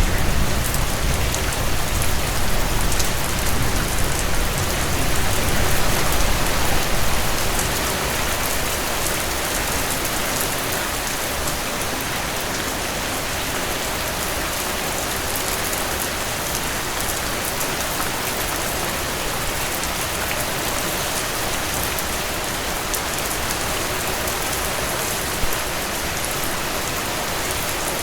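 Heavy rain falling steadily, an even hiss spread from low to high. A deeper low rumble under the rain for the first seven seconds or so eases off, leaving the rain slightly quieter.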